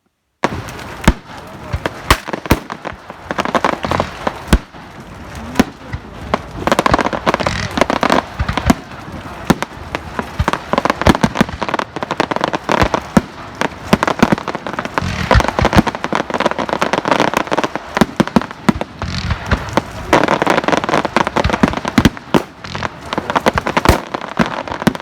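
Fireworks display: a rapid, irregular series of sharp bangs and crackles from aerial fireworks, cutting in abruptly about half a second in, with a crowd's voices underneath.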